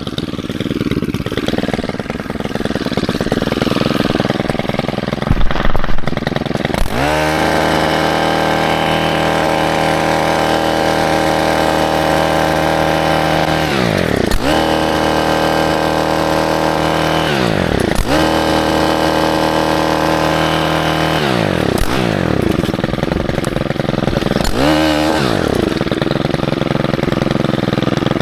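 Stihl KM 131 R KombiMotor's small 4-MIX engine driving a cultivator attachment through rocky soil. It sounds rough and unsteady for the first several seconds, then runs at steady high revs from about seven seconds in, the pitch dropping and climbing back about four times.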